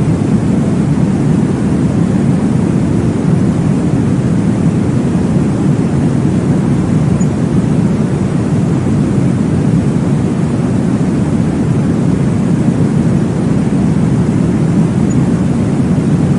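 Steady, low rushing noise from a baby sleep-aid track, heavy in the bass and unchanging throughout. It is meant to recreate the whoosh of blood flow heard in the womb.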